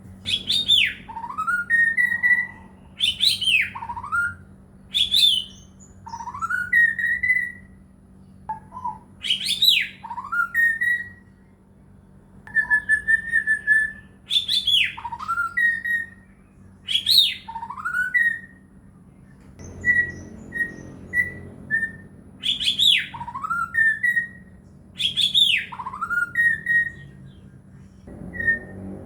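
White-rumped shama (murai batu) singing: loud whistled phrases repeated about every two seconds, each with a note sliding down from high to low, a rising note and a few short clear notes. A steady low hum runs underneath.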